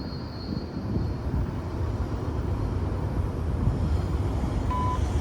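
A low rumble growing steadily louder, as of a freight train approaching, with a short beep near the end.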